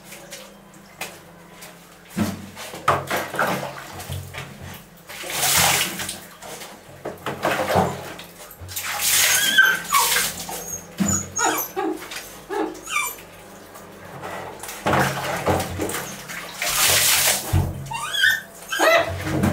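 Puppies whimpering and yipping in short, high, squeaky calls that bend in pitch. Several bursts of rushing, hiss-like noise come in between.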